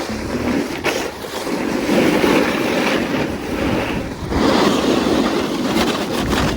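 Snowboard edges scraping over hard, icy snow in surging turns, mixed with wind rushing on the microphone.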